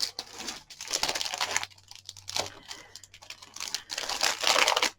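Plastic stamp packaging crinkling and rustling in several bursts as rubber stamps are sorted through by hand.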